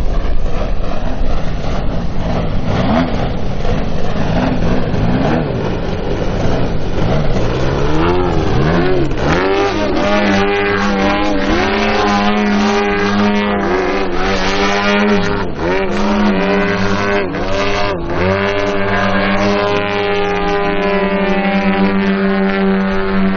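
Engines of radio-controlled Extra 330 SC aerobatic model planes in flight. For the first ten seconds or so the pitch wavers and climbs with the throttle, then it settles into a steady high-revving note broken by several brief dips.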